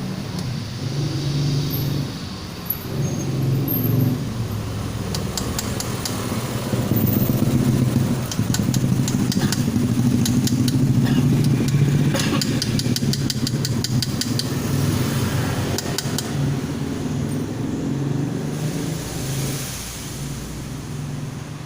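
An engine running unevenly throughout, with runs of rapid clicking in the middle.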